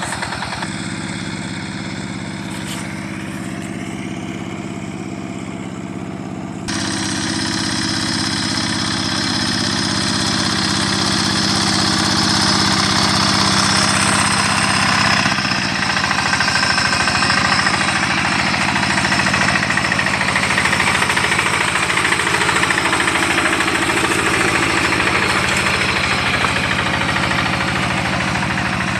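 Rice-field tractor engine running steadily. It turns suddenly louder and brighter about seven seconds in, and its tone shifts slightly about halfway through.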